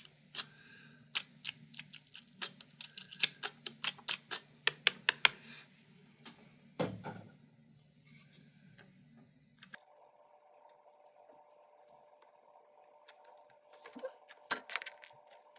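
A quick run of sharp clicks and taps from handling small hard parts and tools, dense for the first several seconds, with a few more near the end. Under it is a faint steady low hum that shifts abruptly higher about ten seconds in.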